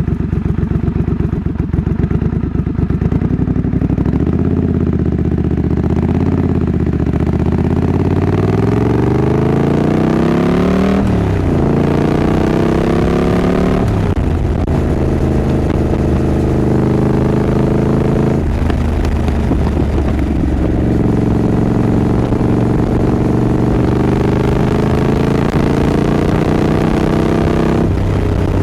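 Triumph Scrambler 900's parallel-twin engine at low revs, then accelerating through the gears: the pitch rises twice with a sharp drop at each upshift, about eleven and fourteen seconds in. It then settles into steady cruising with a few brief dips as the throttle is eased.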